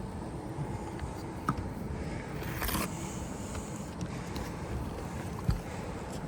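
Scrapes and knocks of a roofer's feet and hands on asphalt shingles over a steady low rumble, with a brief scrape just under three seconds in and a sharp knock near the end.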